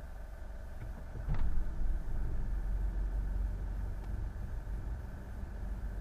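A motorboat's engine running steadily, with a low hum that grows louder about a second in and holds there.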